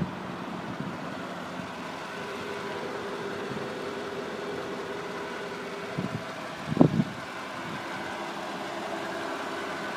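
Mercedes S55 AMG's 5.4-litre V8 idling steadily. About seven seconds in there is a short, loud thump.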